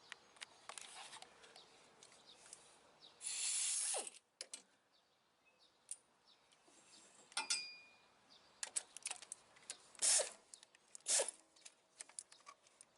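Pneumatic air ratchet on a tight 15 mm nut, run in a few short hissing bursts with clicks of the tool being fitted and handled between them; the nut is stuck and the ratchet does not break it loose.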